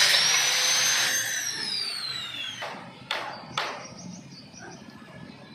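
An electric power tool running at full speed, then released and winding down, its whine falling in pitch over about a second and a half. Two sharp knocks follow about half a second apart.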